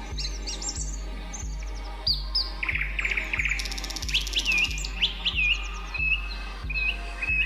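Several songbirds chirping, with quick sweeping calls, a buzzy trill about three seconds in, and a string of short repeated notes near the end. Under them runs a soft, low music bed with a steady slow pulse.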